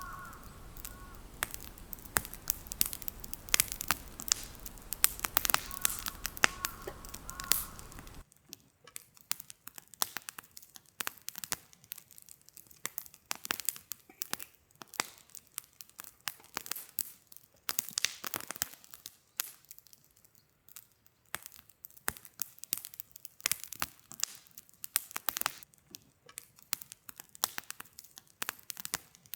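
Wood fire crackling, with many irregular sharp snaps and pops. For the first eight seconds or so they sit over a steady hiss; then the background drops suddenly and only the sparser crackles remain.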